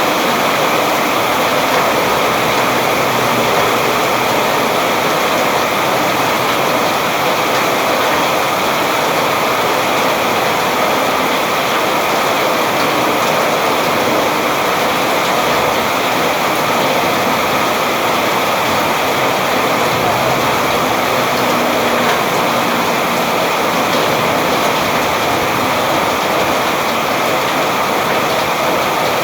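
Steady rain falling, an even, unbroken hiss with no single drops standing out.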